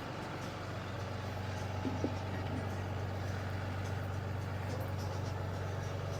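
Heavy-truck diesel engine idling steadily, with a couple of faint knocks about two seconds in.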